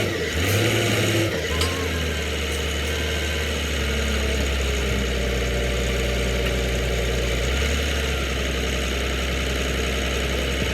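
A heavy diesel engine running steadily, its low drone shifting in pitch a few times (about one and a half, four and seven and a half seconds in), then cutting off abruptly.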